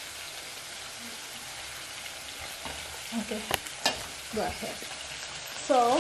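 Beef and onions sizzling steadily in an aluminium pot on a gas stove. About halfway through come two sharp clicks, a knife on a cutting board. Just before the end the sound gets louder as a wooden spoon starts stirring the pot.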